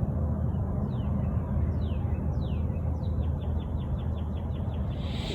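Bird calling: a few falling whistled notes about a second apart, then a fast run of short repeated notes, roughly six a second, near the end. A steady low rumble runs underneath.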